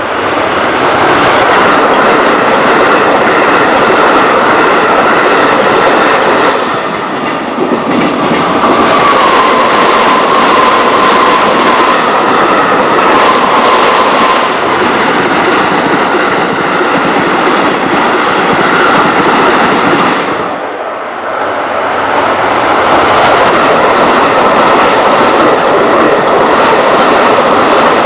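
Train passing close by: a continuous loud rumble and clatter of wheels over the rail joints, easing briefly twice. About a third of the way in, a thin high squeal runs for several seconds, sinking slightly in pitch.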